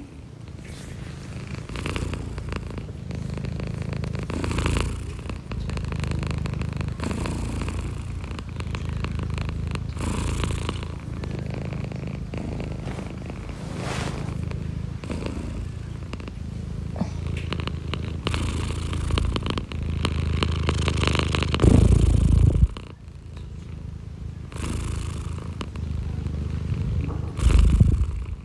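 Domestic cat purring close to the microphone, a steady low rumble that pulses with each breath, with two brief louder bursts, one about three-quarters of the way through and one near the end.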